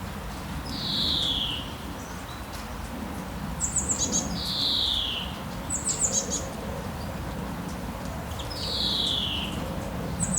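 Songbirds calling over a steady low wash of sea waves: a clear whistled note sliding downward, repeated three times about four seconds apart, with quick clusters of very high chirps between them.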